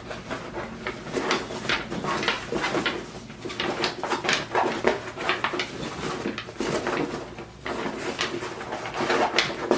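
Irregular rustling, clicks and knocks from a skate bag being handled and packed.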